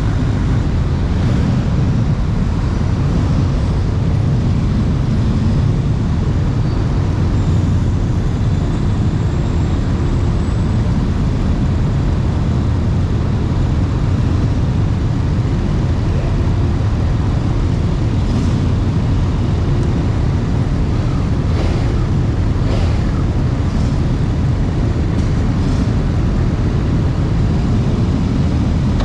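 Steady low rumble of running vehicle engines, unchanging in level throughout.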